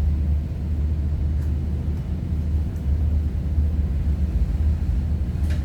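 Strong wind buffeting the microphone, a steady low, flickering rumble.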